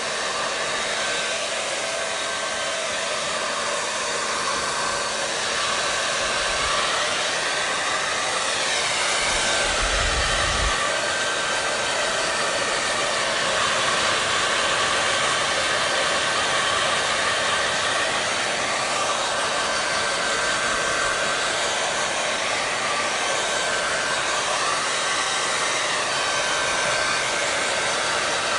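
Hair dryer running steadily: a continuous rush of air with a faint steady motor whine, its tone shifting slowly up and down now and then.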